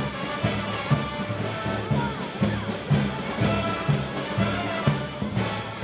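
Brass band playing, with trumpets and trombones carrying held notes over a steady drum beat of about two strokes a second.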